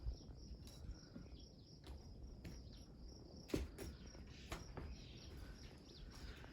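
Faint background of insects chirring, steady and high, with a few scattered soft clicks; the loudest click comes about three and a half seconds in.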